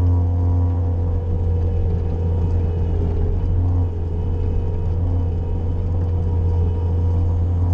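Bobcat skid-steer loader's engine running steadily under load, with a strong low drone and small dips in level.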